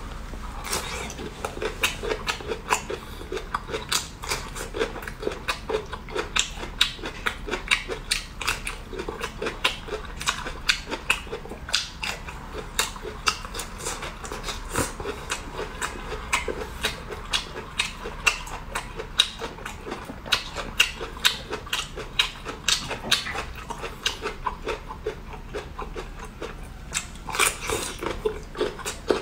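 Chewing and crunching a mouthful of bamboo shoot in chili oil: a steady run of wet, crunchy chews, about two or three a second.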